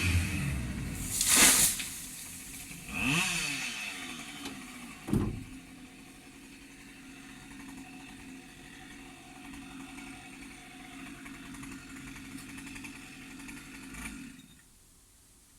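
Chainsaw engine revving hard in short bursts, with a sharp thud about five seconds in. It then runs at a steady idle until it cuts off suddenly near the end.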